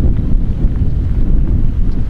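Strong mountain wind buffeting the microphone: a loud, continuous low rumble.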